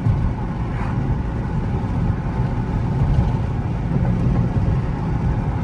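Car's Nissan VQ-series V6 engine running under way, with road noise, as a steady low drone.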